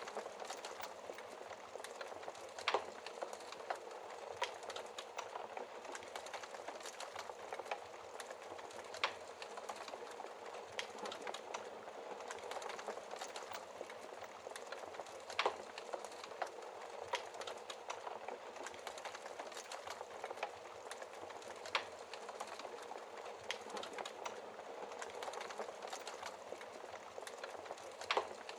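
Wood fire crackling in a fireplace: a steady hiss of burning, dense with small crackles, and a sharper pop about every six seconds.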